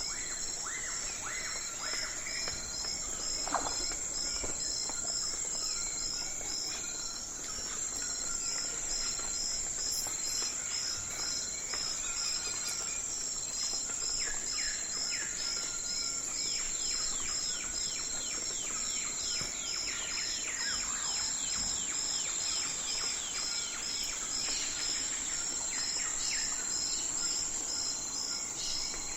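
Night forest ambience: a steady, high insect trill with crickets chirping in a regular pulse, overlaid by runs of quick descending chirps, mostly in the first few seconds and again in the middle.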